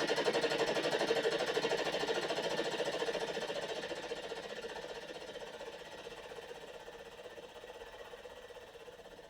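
Helicopter rotor chopping, a rapid steady pulse that fades away gradually over the last several seconds.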